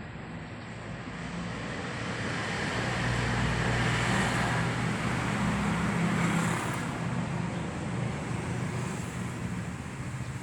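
A motor vehicle passing: its noise swells to a peak about four to six seconds in and then fades, over a steady low hum.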